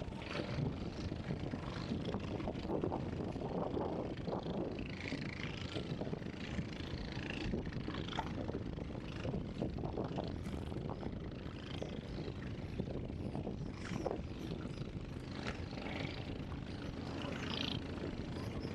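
Seaside outdoor ambience: a steady low rumble with short, scattered bird calls.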